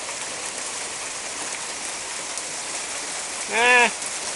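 Small hail, smaller than peas, coming down hard and striking the ground as a steady, dense hiss of tiny hits. A short hummed voice sound, rising and falling in pitch, comes through about three and a half seconds in.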